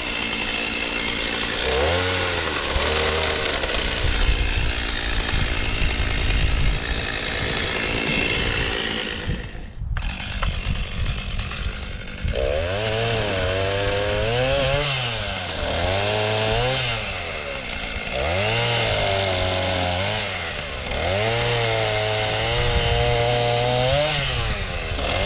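Gasoline chainsaw cutting a spruce log, its engine revving up and dropping back over and over. It cuts out briefly about ten seconds in, then goes on rising and falling every couple of seconds.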